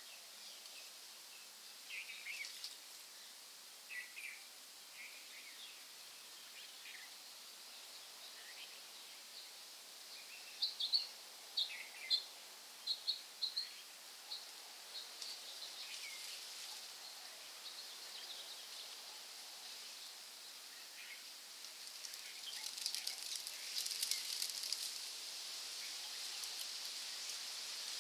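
Forest birds chirping and calling, with a quick run of sharp, loud notes about a third of the way in. In the last few seconds a steady hiss with fine pattering builds.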